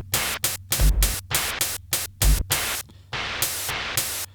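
Drum beat played from a Roland SP-404 mk2 sampler, built from white-noise samples: quick hissy hi-hat and snare hits, several a second, over deep kick thumps at the start, about a second in, and again near the middle. Longer hiss hits come near the end.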